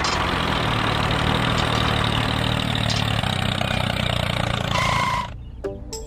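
A tractor-type engine running steadily at idle, with a low hum under a hiss. It stops suddenly about five seconds in, and a light tune starts.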